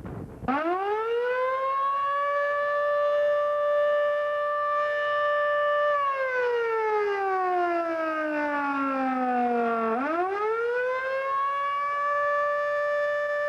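Civil defense siren winding up to a steady wail, winding down slowly to a low pitch about halfway through, then winding back up to the wail.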